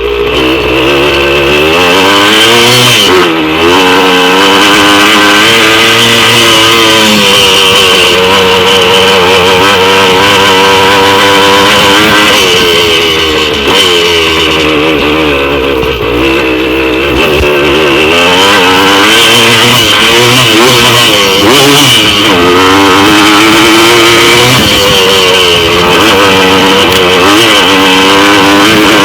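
1982 Yamaha MX175's single-cylinder two-stroke engine running loud, its revs rising and falling over and over as the throttle is worked.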